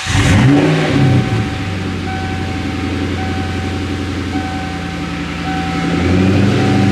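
1996 Ford Mustang SVT Cobra's 4.6-litre DOHC V8 starting up with its mufflers removed: it catches with a brief flare of revs in the first second or so, then settles into a loud, steady idle through the open pipes. Near the end the idle grows louder.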